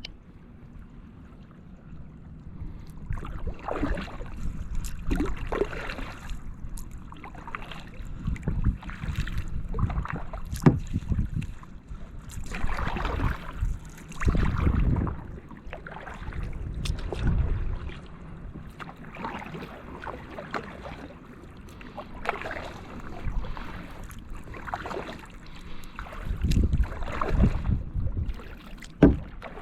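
Kayak paddle strokes dipping and pulling through calm water, a swish and splash every second or two, with some wind rumble on the microphone.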